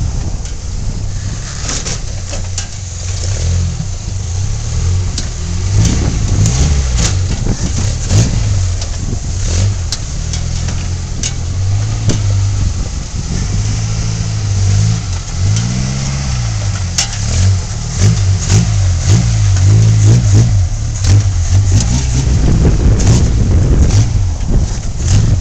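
Toyota engine in a Suzuki Samurai running, its revs rising and falling repeatedly, with scattered short knocks and rattles.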